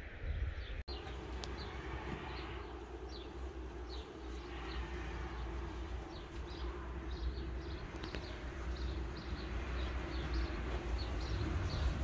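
Small birds chirping over and over in short, high, falling notes, more often in the second half, over a steady low rumble.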